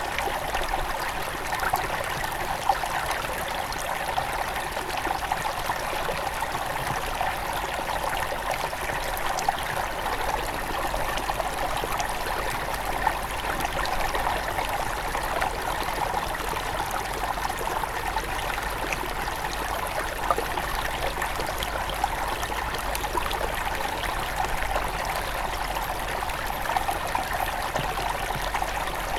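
A small forest river at its headwaters, water running and trickling over stones in a steady, even rush, with many small splashes and drips.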